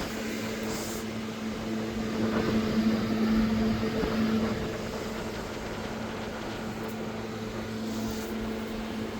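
A steady mechanical hum with a low droning tone, swelling slightly for a couple of seconds in the middle.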